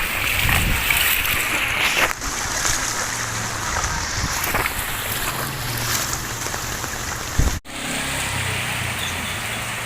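Heavy rain pouring down in a steady hiss, with a faint low hum underneath. A short thump, then the sound cuts out for an instant about three-quarters of the way through.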